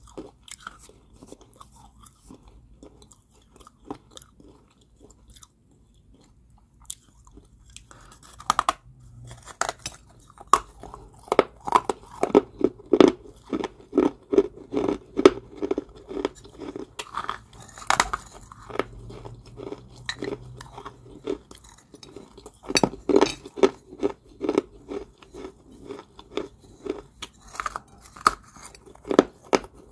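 A person biting and chewing crunchy balls of Georgia white clay. A few faint crunches come first, then from about ten seconds in there is steady rhythmic crunching, about two to three crunches a second.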